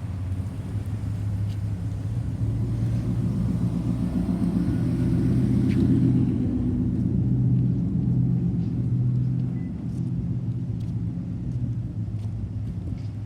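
Washing machine running with a steady low motor hum that swells for a few seconds in the middle and then eases back, with a few faint clicks.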